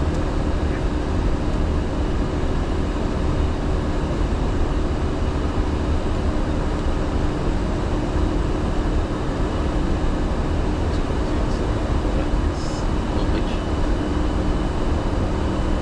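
Steady flight-deck noise of an Airbus A350-900 in the climb: an even rush of airflow and engine sound with a steady low hum underneath.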